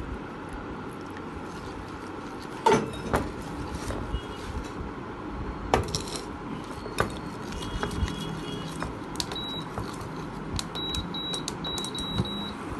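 A utensil mixing onion-ring batter in a bowl: scraping and clinking against the bowl, with a few sharper knocks.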